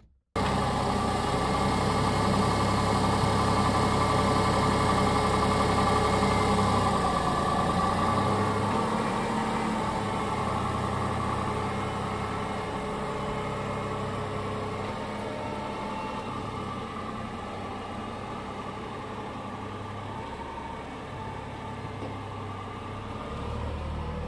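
Tata Tiago hatchback's three-cylinder engine running steadily, then fading gradually from about seven seconds in as the car moves off.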